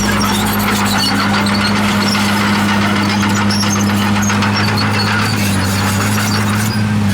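Bulldozer diesel engine running steadily with a low hum, over high-pitched squeaks and clinks from its steel tracks.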